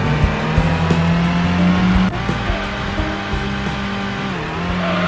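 Cartoon vehicle engine sound effects over upbeat background music with a steady beat. The low engine drone holds, then shifts pitch about two seconds in and again near the end.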